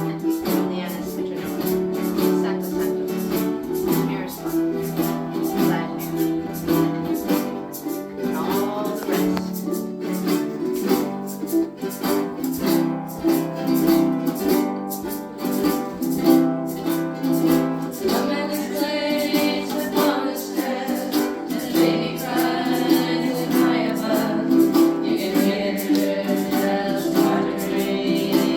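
Ukuleles strumming an even rhythm together, with a group of voices singing along from about eight seconds in.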